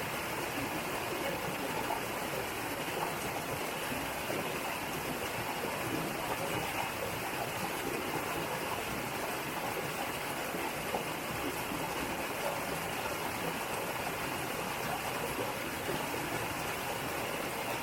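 Mountain valley stream running over rocks: a steady, even rush of water.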